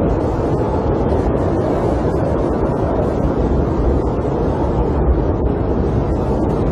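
Snowstorm wind blowing steadily: an even, low rush with faint scattered ticks.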